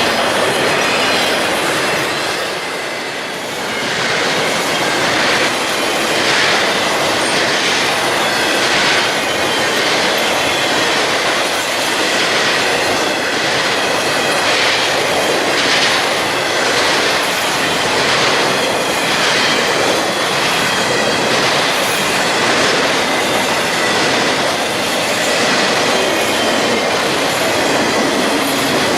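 A train's cars rolling past close by, wheels clicking over the rail joints with a faint squeal from the wheels on the rails.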